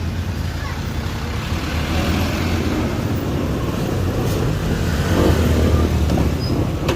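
Steady low engine hum of a nearby motor vehicle, swelling about five to six seconds in, with a few light clicks.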